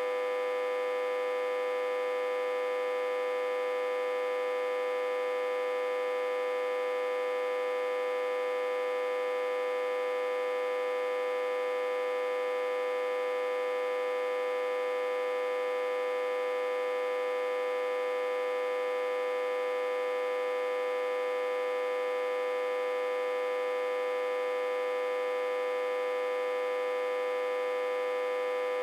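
Autotransformer humming steadily, a single strong mid-pitched tone with many higher overtones and no change in pitch or level. The hum comes from the autotransformer being reverse-connected to a step-down transformer with the input set to about 60–80 V.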